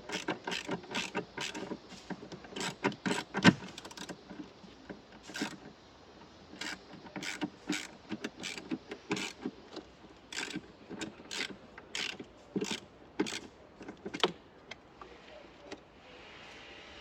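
Irregular mechanical clicks and clinks of hand tools and metal parts during work on a wiper motor and linkage assembly, in uneven clusters with a few sharper knocks, stopping near the end.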